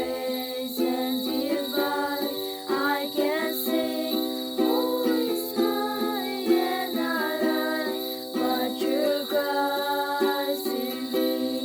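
Music: a voice singing over a strummed plucked-string accompaniment.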